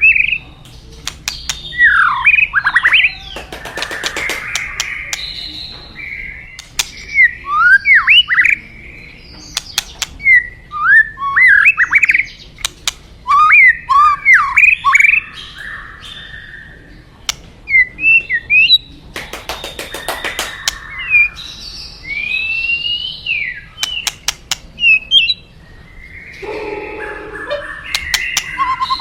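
White-rumped shama (murai batu) singing: a long run of quick, varied whistled phrases of rising and falling sweeps, broken by sharp clicks, with a harsher call near the end.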